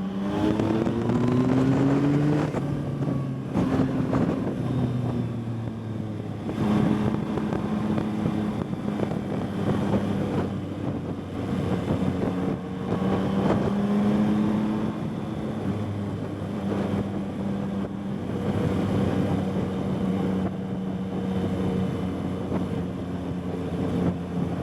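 Yamaha MT-09's three-cylinder engine with an Akrapovič exhaust, under way on the road. Its pitch climbs under acceleration and steps down at two quick-shifted upshifts in the first few seconds, then it cruises at fairly steady revs with small rises and falls. Wind rushes over the microphone throughout.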